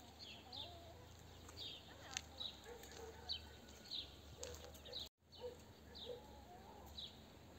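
Faint chirping of small birds: short, high chirps repeating one or two a second, with a brief break about five seconds in.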